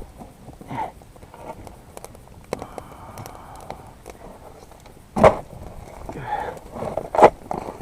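Firewood being handled at a campfire: quiet rustling and knocking, with two sharp cracks about two seconds apart.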